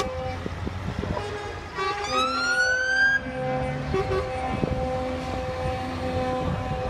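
Motorsport vehicle engines running at steady revs, with one engine revving up in a rising whine about two seconds in that cuts off suddenly a second later, as at a gear change or lift-off.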